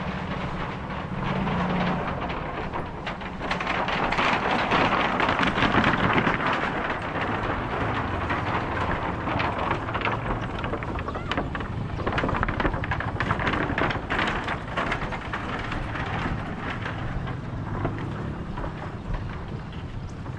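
Outdoor street ambience with a motor vehicle running: a low steady engine hum in the first two seconds, then a louder stretch of engine noise and clatter about four to seven seconds in, as if the vehicle passes close by.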